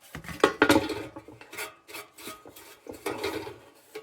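Metal lantern parts and tools being handled on a workbench: a few sharp clinks and knocks under a second in, then irregular scraping and clattering.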